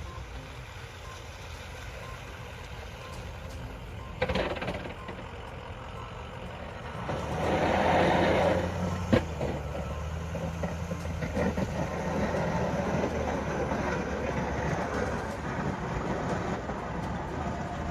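A heavy vehicle's engine running steadily, with a sharp knock about four seconds in and a louder spell of noise around eight seconds in.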